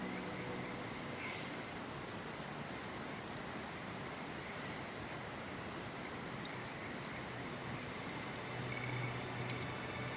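Insect chorus of crickets shrilling steadily in a high band over the even rush of a river. A single sharp snap about nine and a half seconds in.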